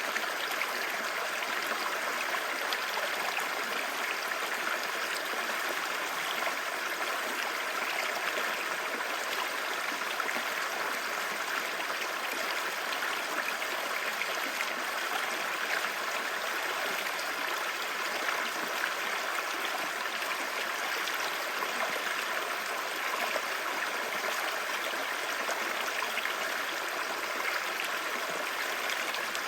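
Clear stream babbling over rocks, a steady rushing and gurgling of running water with no pauses.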